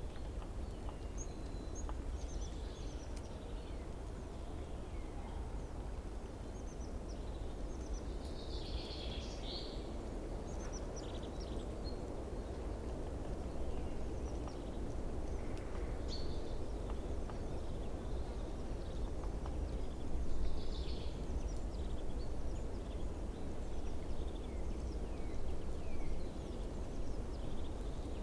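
Outdoor ambience: a steady low background noise with many short bird chirps and trills scattered throughout.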